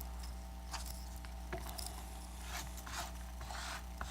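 A tool scraping broken glass off the iPad Air 2's frame in several short, irregular strokes, over a steady low hum.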